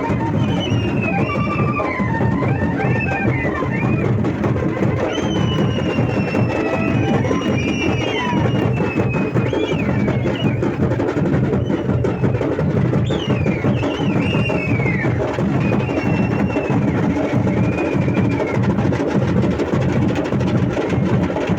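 Drums played at a fast, driving beat, with high sliding, wavering notes over them.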